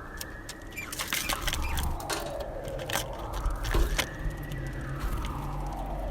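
Emergency vehicle siren wailing, its pitch slowly rising and falling about once every four seconds, with a few sharp clicks and crackles about one to two seconds in and again near the middle.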